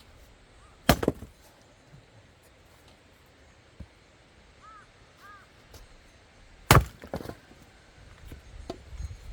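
Two axe strikes splitting firewood, about six seconds apart. Each sharp crack is followed by a brief clatter of split wood.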